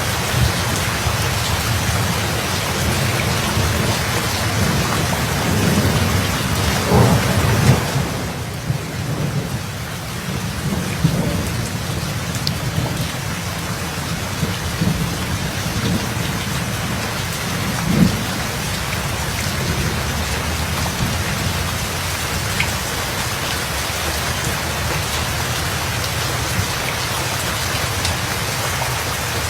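Steady heavy rain with ongoing rolling thunder, which swells loudest about six to eight seconds in, with another sharp rumble about halfway through.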